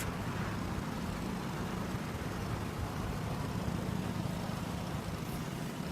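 Steady low hum of background noise, with no distinct events.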